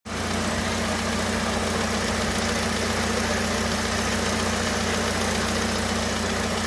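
Fiat Siena car engine idling steadily, with a constant hum over an even rushing noise.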